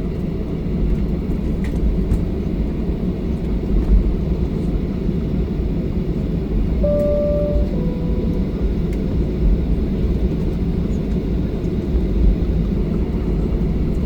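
Inside the cabin of a Boeing 737-800 taxiing: a steady low rumble of the CFM56 engines at idle and the wheels rolling over the taxiway. About seven seconds in, a two-note cabin chime sounds, high then low.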